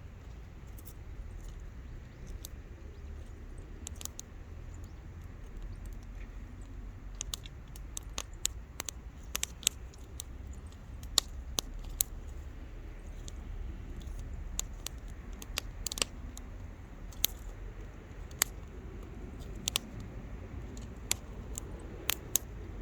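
Wood campfire crackling: irregular sharp pops and snaps over a low steady rumble, the pops coming more often from about seven seconds in.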